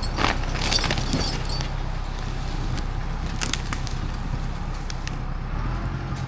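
A machine's engine running steadily at a low, even pitch, with a few short rattles and clicks over it.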